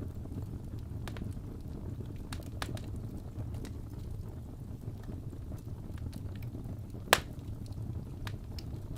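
Wood fire crackling in a fireplace: a steady low rumble with scattered small pops and snaps, and one sharp, louder pop about seven seconds in.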